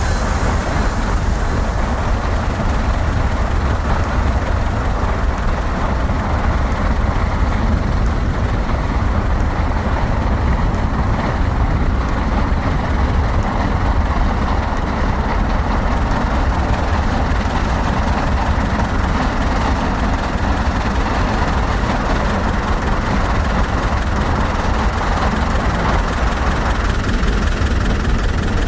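Steady low vehicle rumble with a constant haze of running noise and no clear rhythm or tones.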